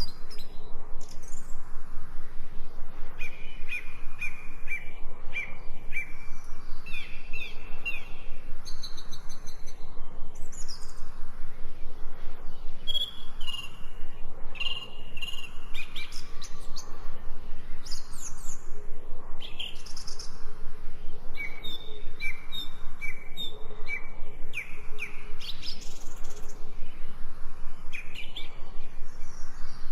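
Songbirds chirping and singing, short notes repeated in quick series, over a steady rapid pulsing background.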